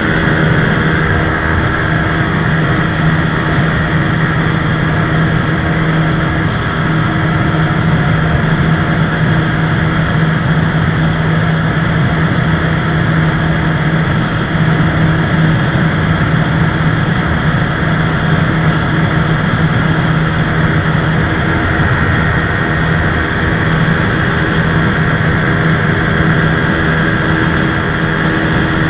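TVS Apache RTR 160 4V single-cylinder motorcycle engine running hard at a steady, unchanging pitch under a loud, even rushing noise.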